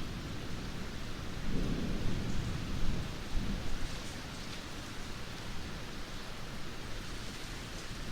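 Heavy rain falling steadily, with a low rumble of thunder that swells about one and a half seconds in and fades out about two seconds later.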